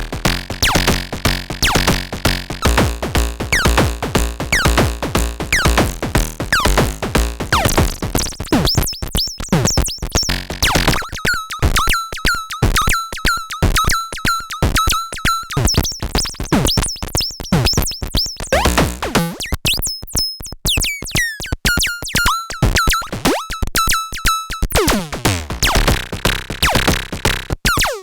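Analog percussion synthesizer playing a fast sequenced drum pattern of pitched electronic hits. About nine seconds in the bass drops away, leaving high, pinging tones with falling pitch sweeps, and the full low end returns near the end.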